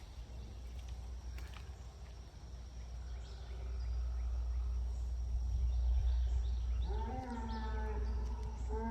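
Longhorn bull bellowing: a loud, long, drawn-out moo that starts near the end, over a low rumble.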